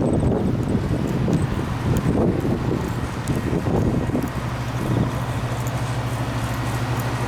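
An engine running steadily with a low hum, with wind on the microphone.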